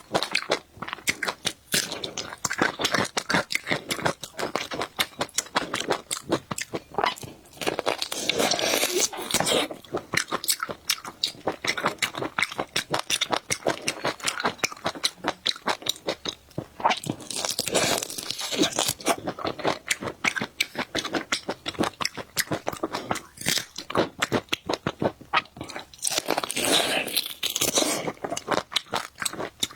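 Close-miked eating: a person chewing and crunching food in quick, irregular clicks, with three longer hissy stretches about a third of the way in, around the middle and near the end.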